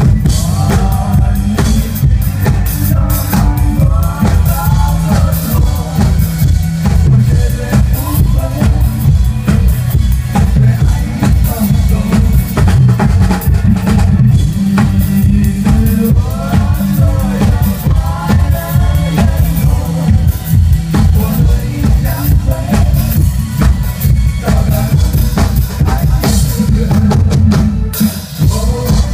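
A drum kit played live to a pop backing track, with kick drum, snare and rimshots over a heavy bass line and a sung melody in the track.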